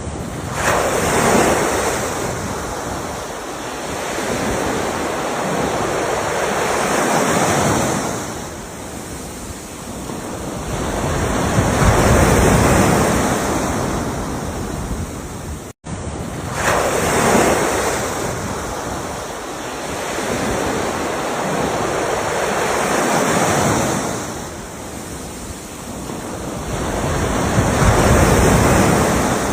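Ocean surf: waves breaking and washing ashore, swelling and fading every five or six seconds. A momentary dropout about halfway, after which the same stretch of surf repeats.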